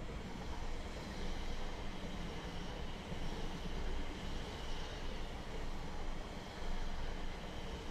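Steady running noise of a train on the railway line, with a faint steady high tone over it.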